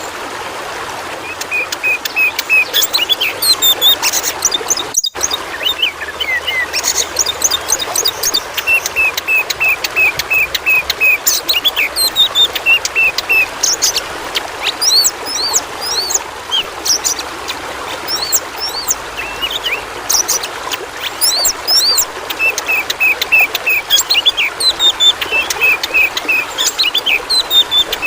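An Oriental magpie-robin (kacer) singing continuously in quick chirps, whistled runs and fast repeated-note series, over the steady rush of running water. About five seconds in, the sound drops out for an instant.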